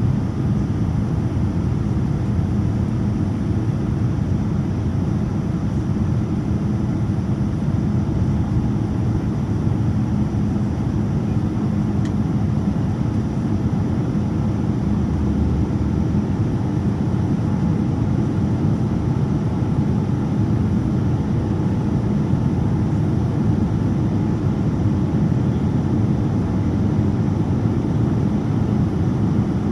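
Steady cabin rumble of a Boeing 787-9 in flight after takeoff, from its Rolls-Royce Trent 1000 engines and the airflow over the fuselage, heard from inside the passenger cabin. An even, deep drone with no change in pitch.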